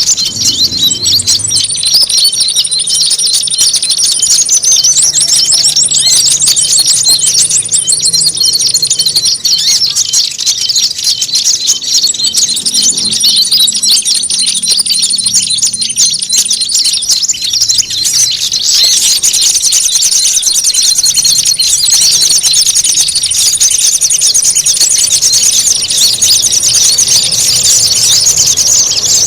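Bird-lure recording of many small songbirds calling at once in noisy, agitated chatter: a dense, unbroken mass of rapid high chirps. A thin, very high trill comes in and drops out several times.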